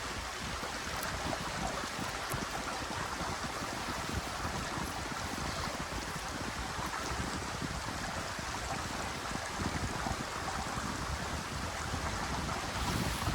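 A small mountain stream running steadily, an even rushing and babbling of water.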